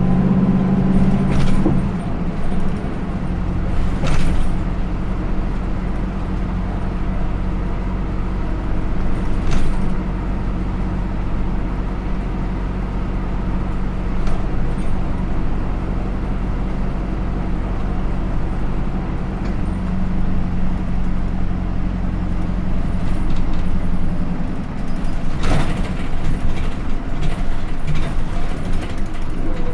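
Hino Rainbow II bus (SDG-KR290J1) under way, heard from inside: its Isuzu 4HK1-TCH four-cylinder turbo-diesel, driving through an Aisin automatic gearbox, runs steadily, its note easing about two seconds in. A few short knocks and rattles of the body can be heard.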